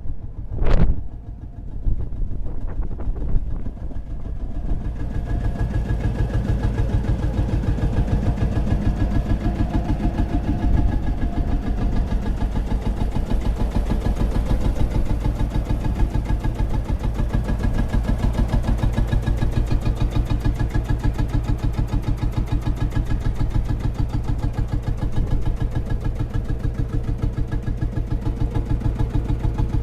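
An old engine with a loud bang about a second in, then a steady run with an even, rapid firing beat and a strong low rumble.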